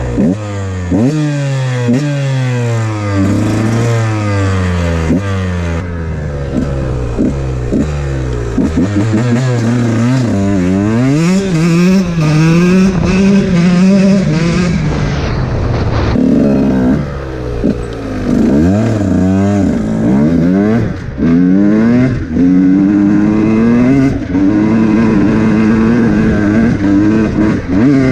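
KTM 125 motorcycle engine accelerating hard at full throttle, its pitch climbing and then dropping at each gear change, over and over. In places it holds a high, wavering pitch at speed.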